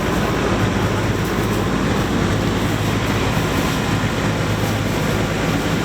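Fire truck's diesel engine running steadily, a constant low hum under a steady hiss.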